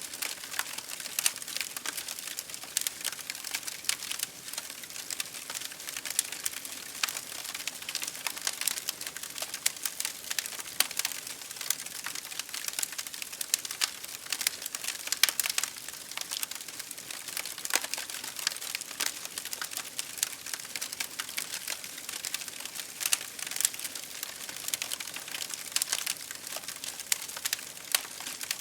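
Wood fire crackling in a fireplace: dense, irregular pops and snaps. Under it is a steady hiss of rain falling against a window.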